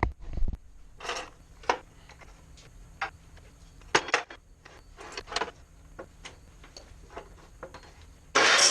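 Scattered sharp clicks and knocks of tools and parts being handled, then near the end a Milwaukee deep cut portable band saw starts abruptly and runs with a steady, loud cutting noise.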